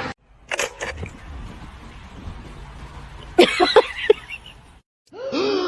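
A dog vocalizing: a quick run of short yips about three and a half seconds in, then a brief whine that rises and falls near the end.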